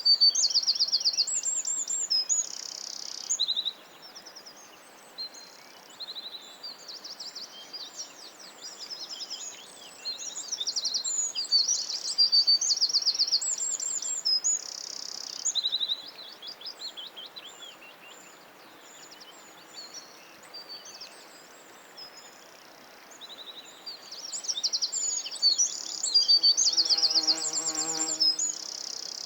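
Several songbirds singing together in woodland: high, rapid trills and quick repeated whistled phrases overlapping one another. The chorus swells and thins, fuller near the start, in the middle and near the end. Near the end there is also a brief, faint, lower-pitched call.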